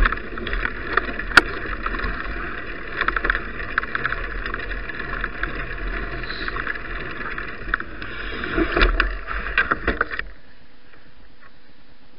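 Bicycle riding noise: a steady rush of tyres and wind with frequent small knocks and rattles, which drops abruptly to a low steady hiss about ten seconds in.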